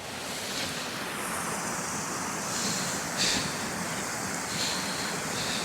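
Fast-flowing creek water rushing steadily, with a few short crunches of footsteps on snow and ice.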